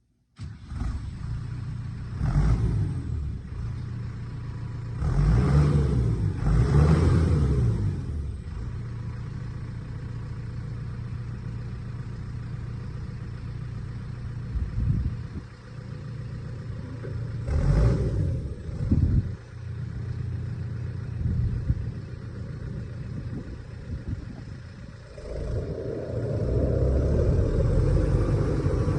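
New Holland T5570 tractor's diesel engine running steadily. It swells louder for a second or two several times, then picks up to a louder, steady run about 25 seconds in.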